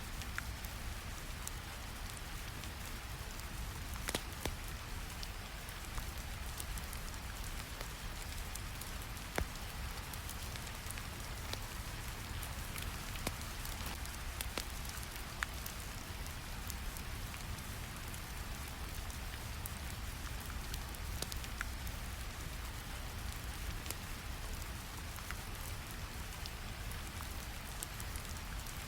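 A recorded ambience bed of steady rain on a surface, layered with a low brown-noise rumble and scattered sharp crackles of a wood fire.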